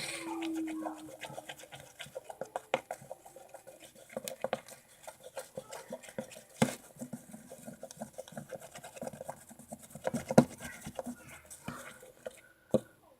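Slime being stirred in a bowl: a mixing utensil scraping and tapping irregularly against the bowl through the thickening glue-and-activator mixture, with a few sharper knocks.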